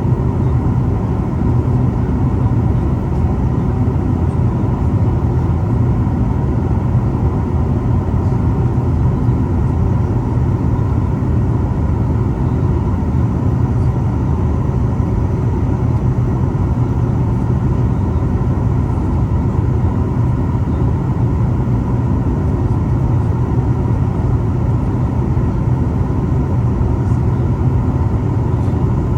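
Steady in-flight cabin noise of a Boeing 737 MAX 8: a low, even rumble of its CFM LEAP-1B turbofan engines and the airflow over the fuselage, with faint steady tones above it.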